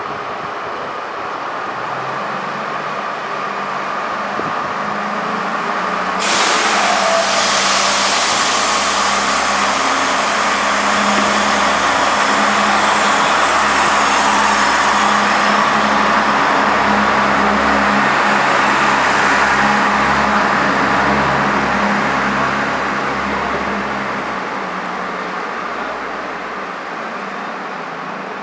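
A train at a station platform. A steady low hum builds, then about six seconds in a loud rushing noise cuts in suddenly and runs on for many seconds before easing off near the end.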